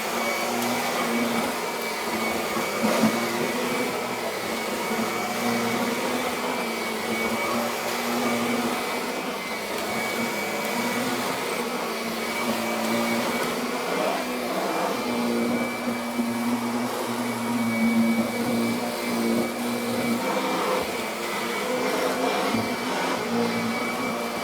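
Kirby Avalir upright vacuum cleaner running continuously while post-vacuuming a freshly shampooed rug. It holds a steady high whine over a lower hum that shifts a little now and then.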